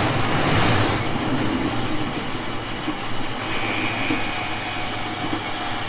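JR East 701 series 5500 subseries electric multiple unit running on the line, heard from inside the car: a steady rumble of wheels on rail and running gear, with a louder rush of noise in the first second and a faint high whine from about three and a half seconds in.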